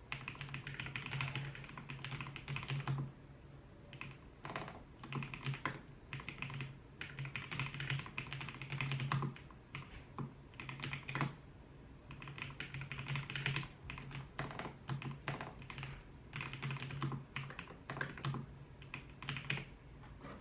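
Typing on a computer keyboard: quick runs of key clicks in bursts, broken by short pauses, with each keystroke carrying a low thud.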